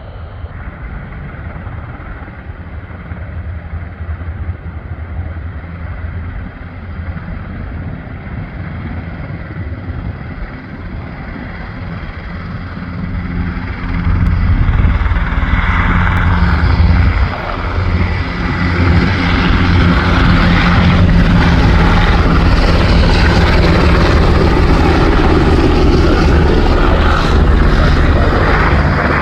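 Two UH-60 Black Hawk helicopters' rotors and twin turboshaft engines running at close range as they take off. The sound grows louder, then jumps much louder about halfway through and stays there.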